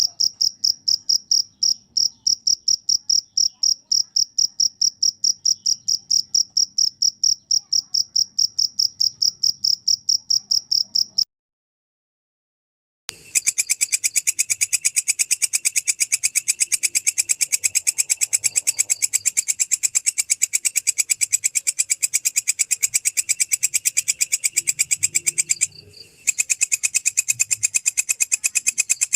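A cricket chirping in quick, even pulses of a high tone, about five a second, which stops about eleven seconds in. After two seconds of silence, a different insect call takes over: a belalang kecek, which gives a denser, harsher, rapidly pulsing call that breaks off briefly near the end.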